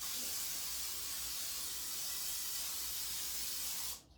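Aerosol cooking spray hissing steadily as it is sprayed to coat a mixing bowl, stopping suddenly about four seconds in.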